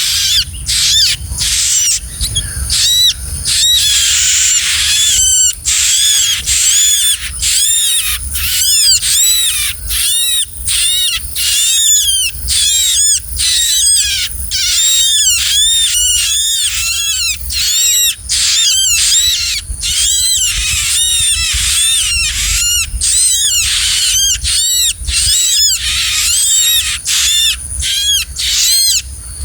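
Small songbird, a bar-winged prinia (ciblek), calling in rapid, continuous high chirps, several a second, each a short note that rises and falls, over a low rumble.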